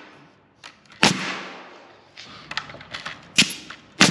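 Nails being driven into wood framing: three loud, sharp strikes, about a second in, a little after three seconds and near the end, each ringing briefly, with fainter clicks between.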